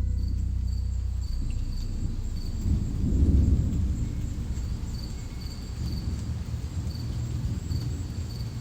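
Ambient drone music: a dense low rumbling drone that swells about three seconds in, with a faint, high, cricket-like chirp repeating every half second to a second over it.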